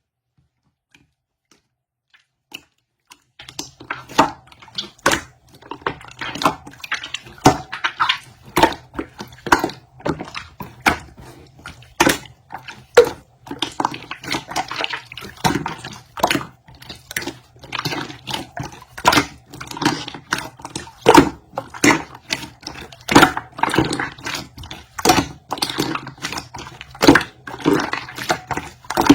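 Orange glitter slime being squished and kneaded by hand, making wet clicks and pops several times a second over a faint low hum. The clicking starts about three seconds in, after near silence.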